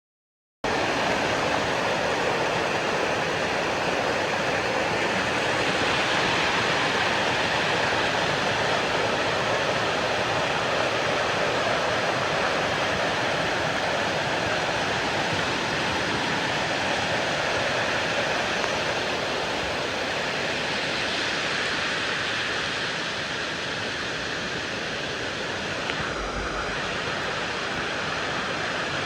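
Steady rush of flowing water, starting abruptly about half a second in.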